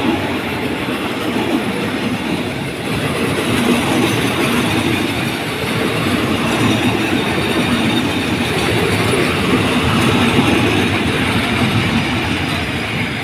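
Passenger coaches of a train rolling past close by as it pulls into a station: a loud, steady rumble and rattle of steel wheels on the rails.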